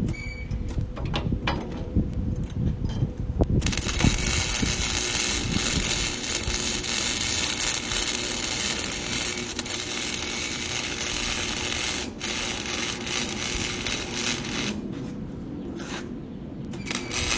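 Handling knocks and clicks on metal, then an electric welding arc crackling steadily as rebar is welded, with a short break partway through; the arc stops and strikes again near the end.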